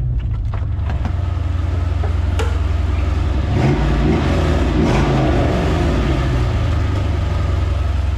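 1995 Chevrolet Caprice's V8 engine running with a steady deep exhaust drone, with a couple of short revs in the middle; it sounds pretty good.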